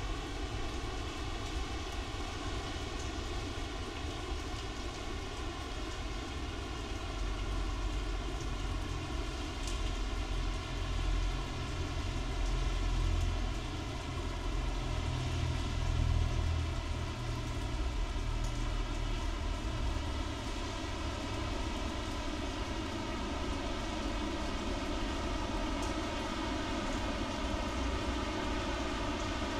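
Heavy rain falling on wet pavement and puddles: a steady hiss of splashing drops. A low, distant rumble swells underneath in the middle and fades again.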